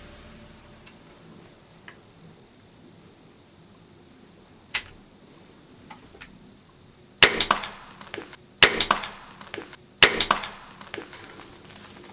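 Faint bird chirps, then three loud crackling rustles about a second and a half apart, each trailing off in a quick patter of smaller crackles.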